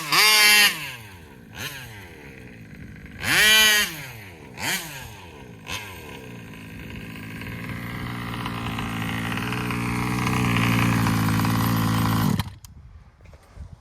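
Taylor 35 two-stroke engine of a large-scale RC car on its stock 1107 carburetor, on a baseline run: two loud full-throttle passes with the pitch rising and falling, at the start and about three and a half seconds in, and a few shorter blips. Then a steady engine note that grows louder for about six seconds before cutting off suddenly near the end, as the engine is shut off.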